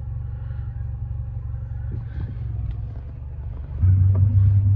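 Steady low rumble inside a car's cabin, with a louder low hum coming in suddenly near the end.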